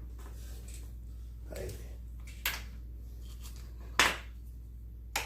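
A few sharp knocks from tools and parts during reassembly of a McCulloch 7-10 chainsaw's oil pump: a light click about two and a half seconds in, a loud knock about four seconds in, and another just before the end. A steady low hum runs underneath.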